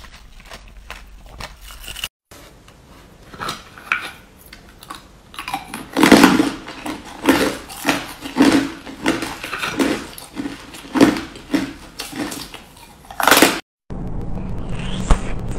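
Ice being bitten and chewed close to the microphone: light clicks and taps at first, then from about six seconds in a run of loud, sharp crunches, roughly one or two a second.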